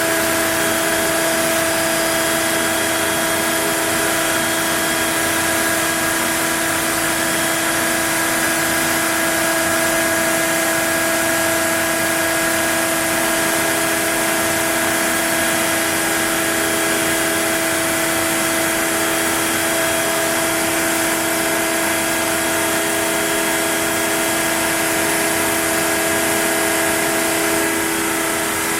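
Router spindle on a Onefinity CNC machine running steadily at high speed, with a steady whine over a dense hiss while it carves a wooden board.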